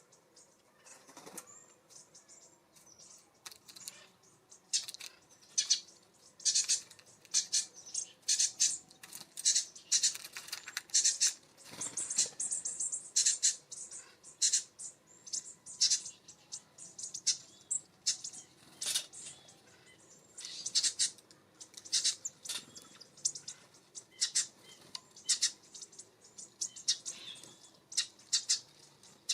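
Small songbirds at a feeder calling in a busy run of short, high chirps, several a second. The calls are sparse at first and become dense about four seconds in.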